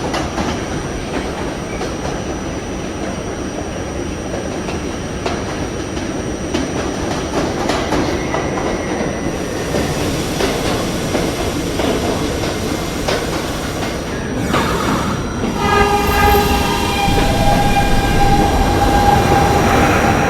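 R68A New York City subway train running along the track: a steady rumble and clatter. About three-quarters of the way through, a steady pitched squeal joins in and the sound grows louder.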